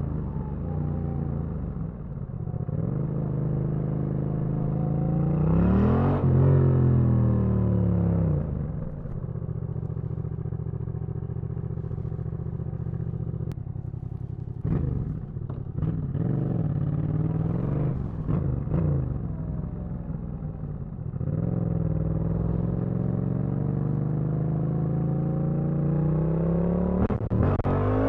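Yamaha MT-07 parallel-twin motorcycle engine under way: its pitch climbs sharply about six seconds in, then holds steady. A run of quick rev changes with clicks follows in the middle, then a steady cruise, and it revs up again near the end.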